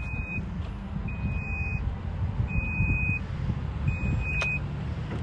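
A high electronic beep sounding about five times, each on for a different length, over a steady low rumble, with a sharp click about four and a half seconds in.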